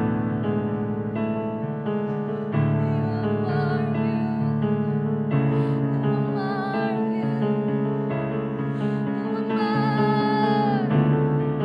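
Slow worship music: sustained keyboard chords under a voice singing long, wavering held notes.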